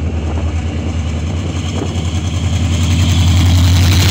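Diesel locomotive engine running with a deep, steady throb, growing louder from about halfway through as it is throttled up.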